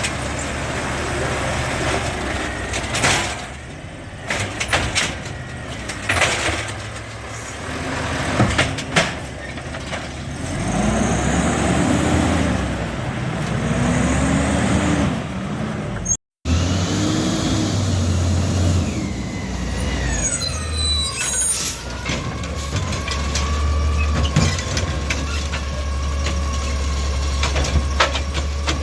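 Garbage trucks at work. A diesel engine revs up and down several times among clanks and knocks, then after a cut another truck runs with a steady low engine drone, along with air-brake hiss.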